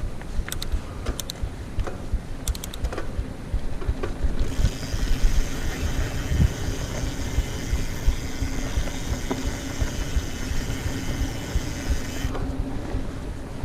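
Mountain bike ridden fast on a trail: steady tyre and wind rumble, with sharp rattling clicks from the bike over the first few seconds. From about four seconds in until near the end, a steady hissing buzz rises over the rumble.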